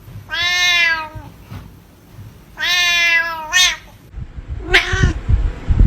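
A cat meowing: two long, drawn-out meows, then a shorter one about five seconds in, with low bumping noises over the last couple of seconds.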